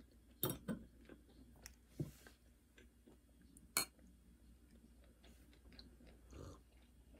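Quiet chewing at the table, with a few sharp clicks of a wine glass and a fork against the tableware.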